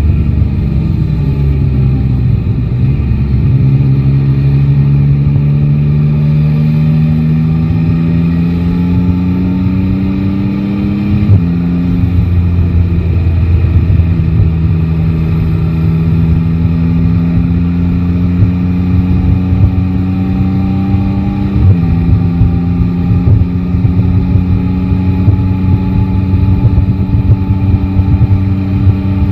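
Yamaha Tracer 9 GT's 890 cc inline-three engine pulling gently under way, its note rising slowly and dropping sharply at two upshifts, about 11 and 22 seconds in. Steady wind and road noise runs underneath.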